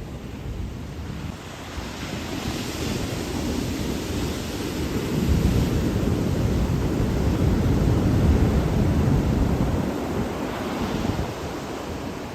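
Ocean surf washing on a beach, in swells of hiss, with wind buffeting the microphone as a heavy low rumble that is loudest in the middle.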